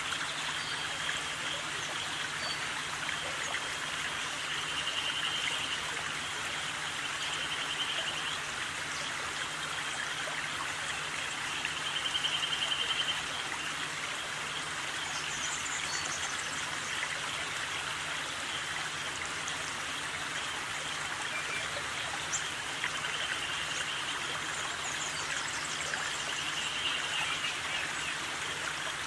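Steady rushing noise like flowing water, with short, rapid trills every few seconds.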